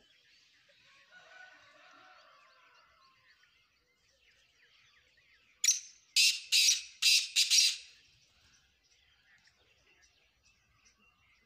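Black francolin calling: one loud, harsh call of about six rapid notes about halfway through, over faint background chirping.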